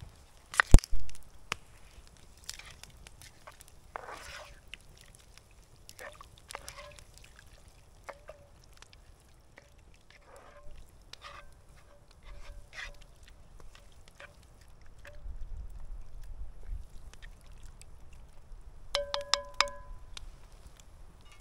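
Cookware and utensils being handled: scattered knocks and clinks, with a sharp knock about a second in and a short run of ringing metal clinks near the end.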